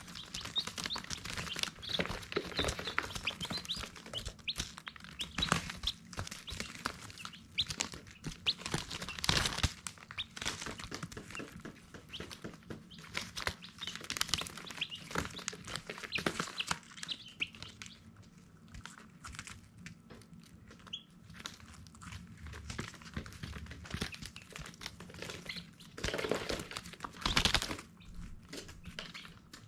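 Baby chicks peeping: many short, high chirps overlapping, thinning out past the middle. Two louder knocks stand out, one about nine seconds in and one near the end.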